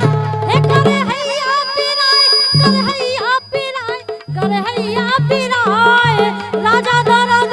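Bundeli folk music: a wavering, pitch-bending melody over a steady drum beat. The music thins briefly about three seconds in, then carries on.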